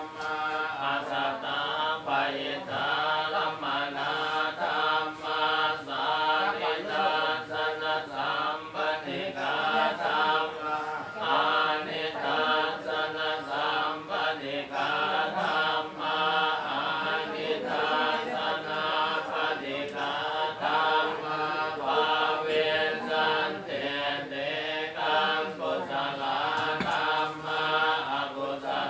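Buddhist chanting in Pali: a steady, unbroken group recitation on a few held pitches.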